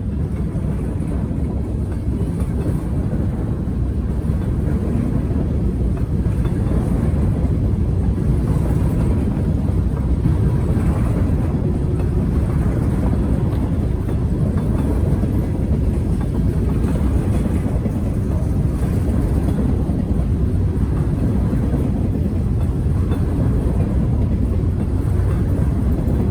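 Norfolk Southern freight train rolling past, its cars' wheels on the rails making a steady low rumble.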